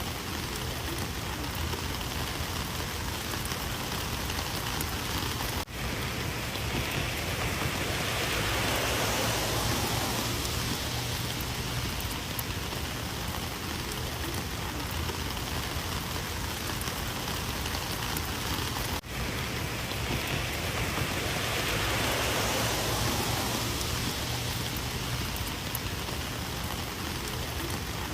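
Rain falling steadily as an even hiss of drops, swelling louder twice and cutting out for an instant twice.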